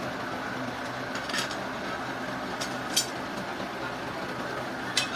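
A steady machine hum at a constant pitch, with three short sharp clicks or knocks about a second and a half, three and five seconds in.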